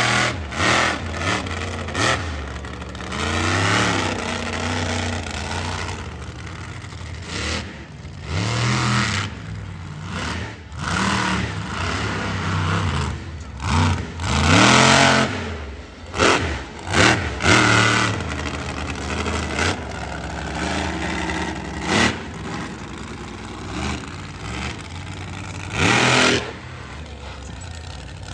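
Monster truck engine revving hard over and over, its pitch sweeping up and down, with loud surges about halfway through and near the end.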